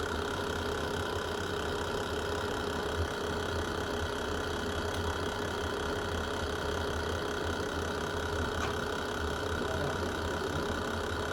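Fireplace ambience: a steady low rumble of a burning fire with a faint constant hum, and hardly any crackles.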